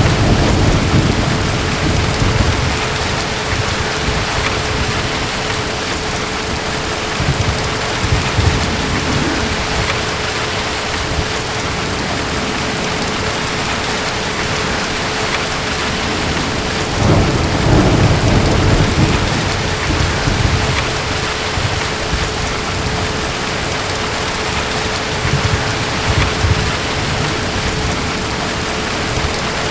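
Thunderstorm: steady heavy rain with distant thunder rumbling in several low swells, the strongest just past the middle.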